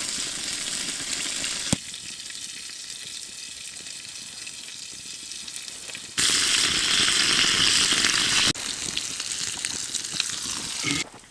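Food sizzling as it fries in a pan over a campfire, a steady hiss that jumps in loudness several times, loudest for a couple of seconds after the middle.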